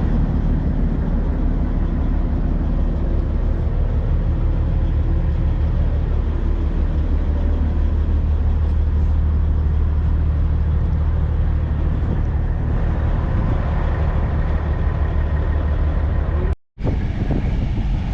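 A large truck engine running steadily with a low, even rumble. The sound cuts out for a moment near the end and then carries on.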